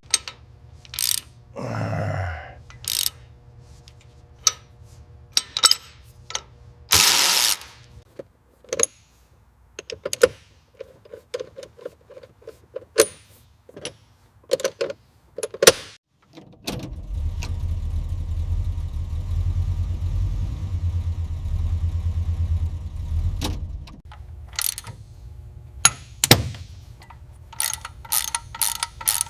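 Workshop tool and metal-part sounds: scattered clicks and knocks, a short hissing burst, and a ratchet-like clicking that speeds up near the end. A motor-driven tool runs steadily for about seven seconds in the middle.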